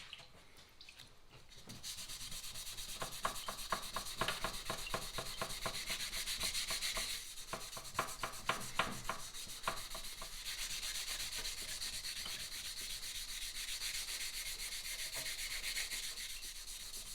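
Diesel-soaked medium-grade steel wool scrubbing the engine of a 2001 Suzuki RM125: quick back-and-forth rubbing strokes that start about two seconds in and carry on steadily.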